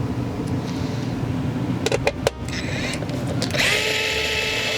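DeWalt gyroscopic cordless screwdriver driving the screws that fasten a TV mounting plate. There are a couple of sharp clicks about two seconds in, then near the end the motor spins up with a rising whine that settles into a steady tone.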